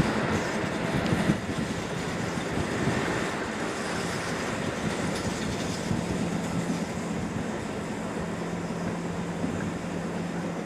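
A train running past on the rails: a continuous rumble of wheels on track with a steady low hum underneath.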